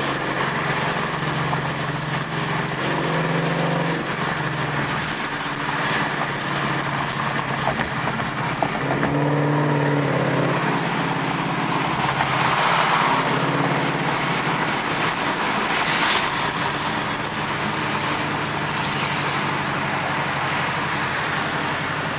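Ford Mustang GT's V8 exhaust, through headers, an X-pipe and the factory mufflers, running at a fairly steady engine speed while the car is driven.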